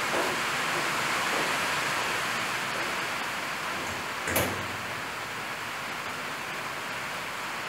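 Loud rain on the shop roof, heard from inside as a steady hiss. A single sharp knock sounds about four and a half seconds in.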